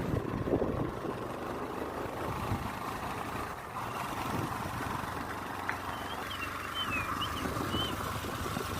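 Steady rush of water flowing across a hill road. A small bird chirps several times in the second half.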